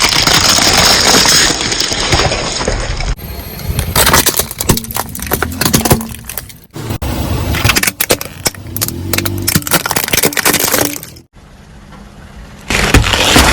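Things crunching, cracking and breaking under a car's tyres, with many sharp snaps, in several short takes that cut off abruptly one after another.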